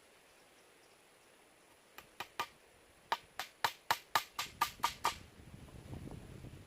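Wood being struck repeatedly: about a dozen sharp, quick knocks over some three seconds, like hammering or chopping. A low rumbling noise sets in as the knocks end.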